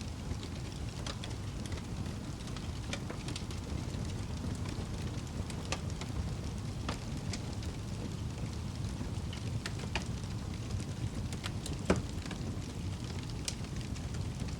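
Wood fire burning in a fireplace: a steady low rumble with scattered crackles and pops, one louder pop near the end.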